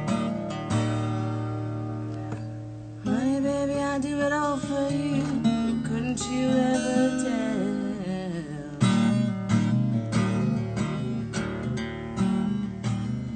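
Acoustic guitar strummed, with a chord left ringing and fading out for about two seconds. Then a woman's singing voice holds long, wavering notes over the guitar for about five seconds. Steady rhythmic strumming comes back for the last few seconds.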